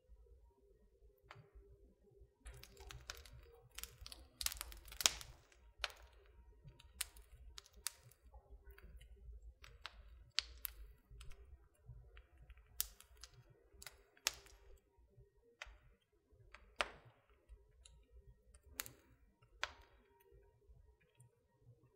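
Wood fire crackling in a fireplace: irregular sharp pops and snaps from the burning logs, busiest in the first half and sparser later, over a low steady rumble.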